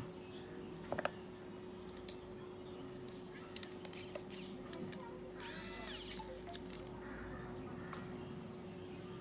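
Quiet workbench room tone with a steady electrical hum, scattered small clicks and taps from handling tools and parts, and a brief squeaky, call-like sound about five and a half seconds in.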